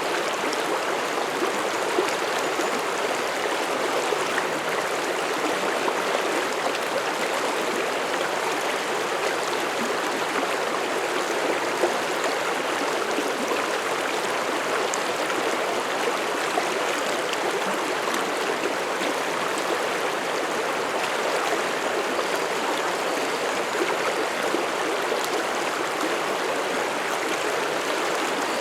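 Mountain stream running over rocks in a steady, unbroken rush, with faint splashes and gurgles on top.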